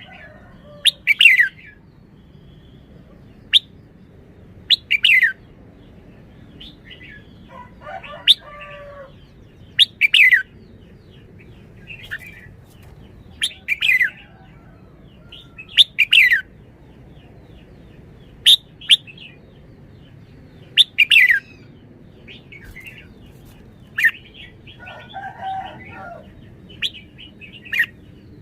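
Red-whiskered bulbul singing: short, loud, downward-sweeping phrases repeated about every two to three seconds, with softer chattering notes in between.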